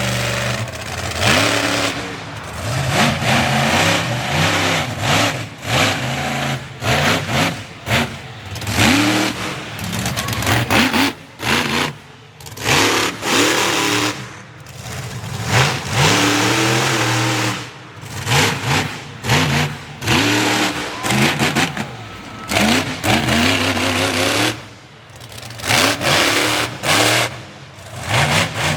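Monster truck engine revving hard in repeated surges, its pitch climbing and then dropping away, with brief lulls between bursts of throttle.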